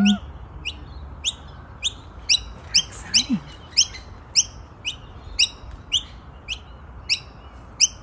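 A bird chirping: short, high chirps repeating steadily about twice a second.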